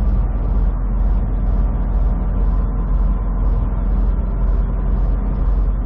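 Semi truck's diesel engine droning steadily with road noise, heard from inside the cab while driving on the highway.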